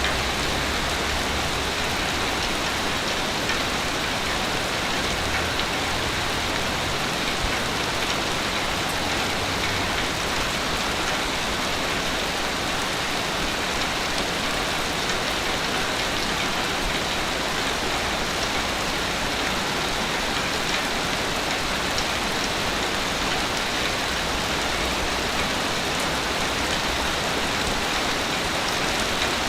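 Sea waves breaking on a beach, heard as a steady, even rush of surf with no separate crashes standing out.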